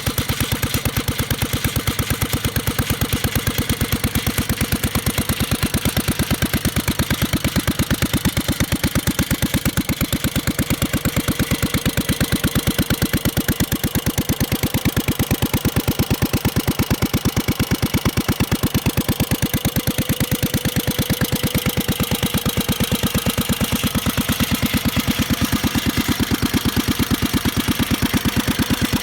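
1950s CO.TI.EMME IDRO stationary engine, a four-stroke side-valve, air-cooled kerosene engine, running steadily with an even, rapid exhaust beat.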